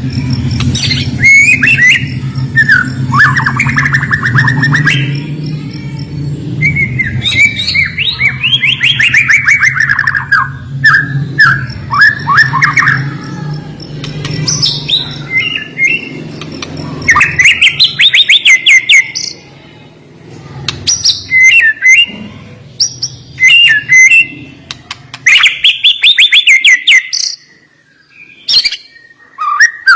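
White-rumped shama (murai batu) singing a loud, varied song: phrases of fast repeated notes and sharp whistles, separated by short pauses. A low hum sits beneath the first half.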